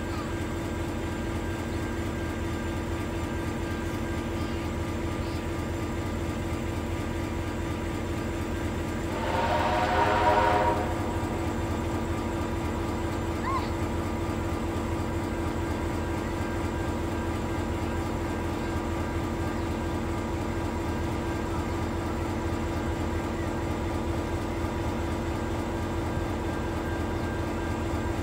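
Train running with a steady engine drone, and a single blast from a locomotive about nine seconds in, lasting about a second and a half.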